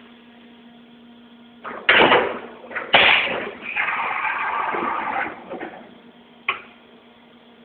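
Two loud metallic clunks a second apart, then a whirring for about a second and a half and a single sharp click, from a Matsuura MC-510V vertical machining center working, over a steady low hum.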